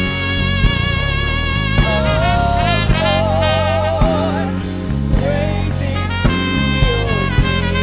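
Live worship music: a brass instrument plays a wavering melody over the band, with a steady drum beat and no singing.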